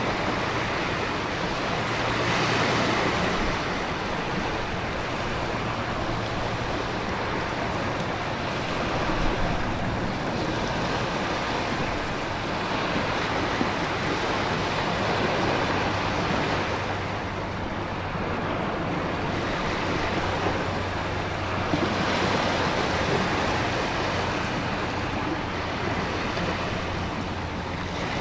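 Storm ambience of heavy rain, wind and ocean surf: a steady rush that swells and eases every few seconds, with a faint low hum underneath.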